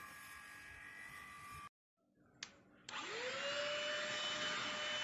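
Cordless handheld vacuum cleaner switched on with a click, its motor whining up to speed and then running steadily with a high whine over a rushing hiss. Before that, a quieter steady electric hum cuts off abruptly.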